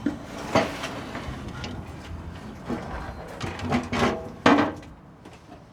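Several separate knocks and clanks of heavy metal parts being handled and shifted while they are test-fitted onto a go-kart frame.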